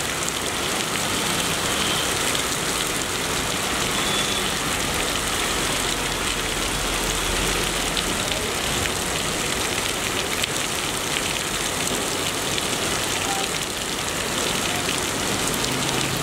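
Heavy rain pouring steadily onto a flooded street, a constant dense hiss, with the low rumble of slow-moving vehicles driving through the water, strongest around the middle.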